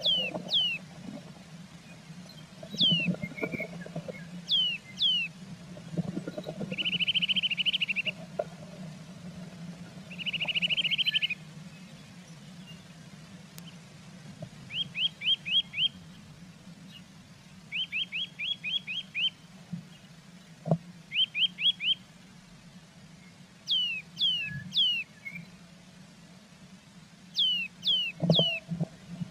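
Small songbird singing: thin high whistles that slide down in pitch, mostly in groups of two or three, mixed with short trills and quick runs of four or five notes. Under it run a steady low hum and a few soft rustling knocks, loudest about 3, 6 and 28 seconds in.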